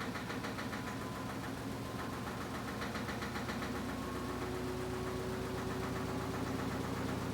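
Washing machine running, a steady motor hum with a fast, even rattle over it.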